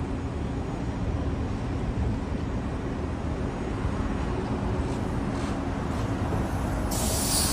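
Steady city street rumble of passing traffic with a faint low hum, and a short loud hiss near the end.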